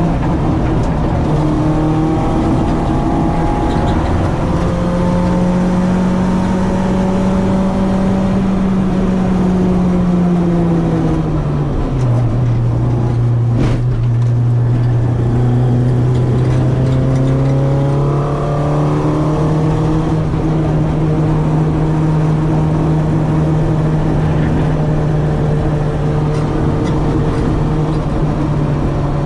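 Citroën AX 8-valve four-cylinder engine on twin Weber 40 carburettors, running hard on track. Its pitch climbs, drops sharply about twelve seconds in, with a single click in the middle, then climbs again and holds steady.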